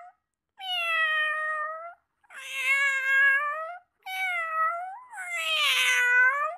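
Domestic cat meowing repeatedly: a series of long, drawn-out meows, each over a second long, with short pauses between them.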